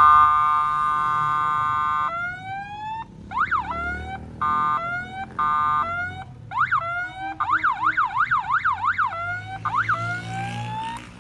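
Electronic alarm siren cycling through its tone patterns: a steady tone for about two seconds, then repeated rising whoops, short beeps, and a fast up-and-down warble, ending with more rising whoops.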